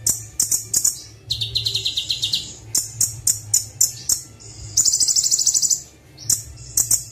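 Kolibri wulung (van Hasselt's sunbird) singing: a string of sharp, high chirps, a trill about a second and a half in, and a faster, higher trill about five seconds in.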